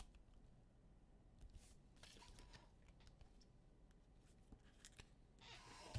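Near silence with faint rustling and a few light clicks from trading cards and their wrappers being handled.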